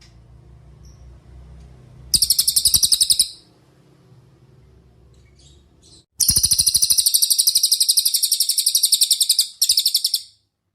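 Cililin bird singing: a short, high, rapid trill of quickly repeated notes, then about three seconds later a long trill that breaks briefly near the end.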